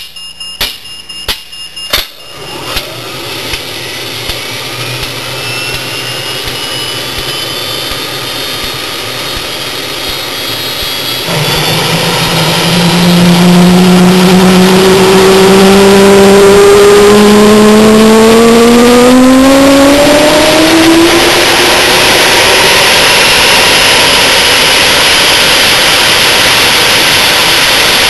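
Small homemade turbine jet engine with an afterburner starting up. A quick series of clicks in the first two seconds, then a rising whine as it spools up. About eleven seconds in it gets suddenly much louder, with a low tone climbing in pitch for about ten seconds before settling into a steady loud roar.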